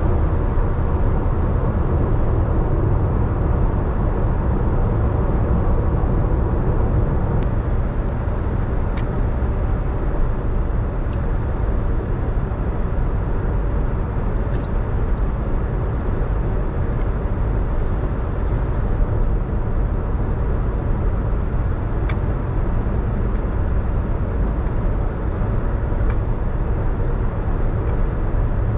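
A car driving on a wet road in the rain: a steady low rumble of engine and tyre noise, with a few faint ticks scattered through.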